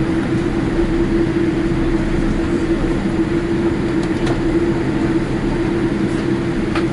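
Cabin noise inside a Boeing 787-8 Dreamliner with its engines running: a loud, steady rushing noise with a constant hum and a few faint clicks.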